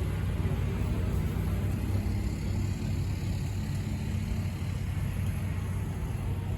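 A steady low engine rumble that holds even, with no rise or fall in revs.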